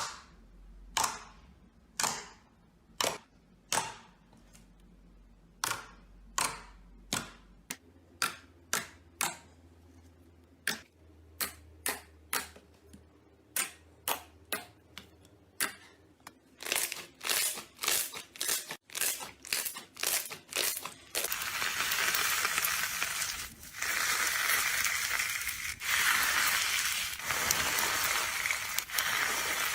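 Slime being pressed and squeezed by hand. First come sharp separate pops, about one a second and then speeding up, and from about three quarters of the way in a dense, continuous crackling crunch.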